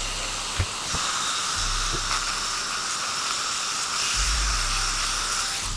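Steady hissing of the lantern's brass being power-polished, which starts suddenly and cuts off near the end, over low background music.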